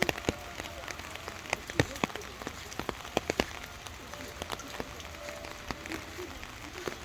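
Scattered water drops tapping on a surface: irregular sharp taps, several a second, over a faint steady hiss.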